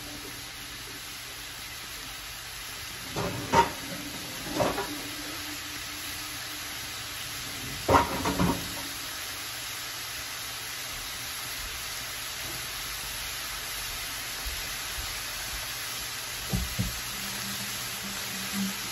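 Cabbage and potatoes cooking in a stainless steel pan, a steady sizzling hiss. A few short, sharp sounds stand out over it: twice around 3 to 5 seconds in, once about 8 seconds in, and faintly near the end.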